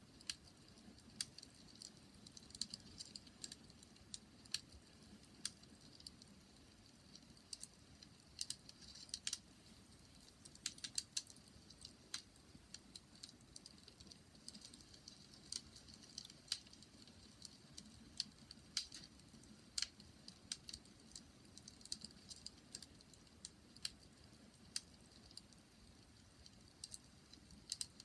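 Wood fire crackling: faint, irregular sharp pops and snaps, a few clustered close together about eleven seconds in, over a low steady rumble.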